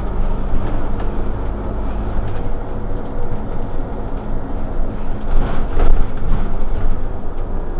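Scania OmniCity single-deck bus on the move, heard from inside: a steady diesel engine hum with road noise and light interior rattles. It grows louder for a moment a little past halfway, with a sharp click.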